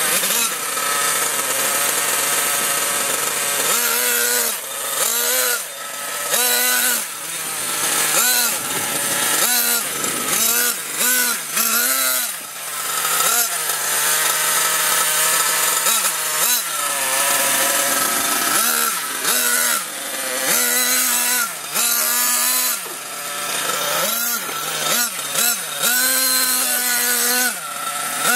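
Nitro RC monster truck's small glow-fuel engine, revved in repeated throttle bursts. Its high pitch rises and falls many times as it speeds up and backs off.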